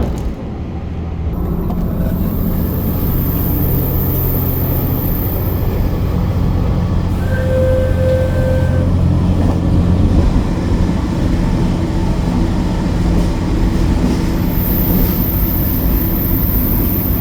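Limited Express Hokuto diesel train running at speed, a steady low rumble of engine and wheels on rail. A short, clear tone sounds for about a second and a half roughly halfway through.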